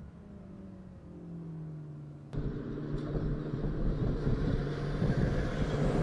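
McLaren MP4-12C's twin-turbo V8 running at a steady low speed. About two seconds in a sharp click comes, and after it the engine is much louder and rougher, growing louder toward the end.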